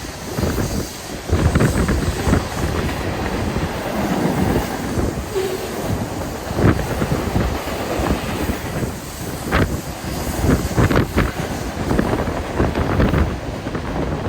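Train cars rolling past, their wheels clattering irregularly over the rail joints under a steady rumble, with wind buffeting the microphone.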